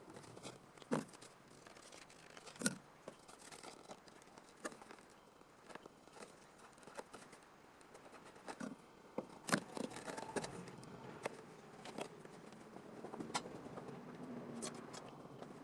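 Scattered light clicks and taps at irregular intervals, with faint rustling between them, as of small tools or parts being handled and set down. The sharpest taps come about a second in, near three seconds in and near the ten-second mark.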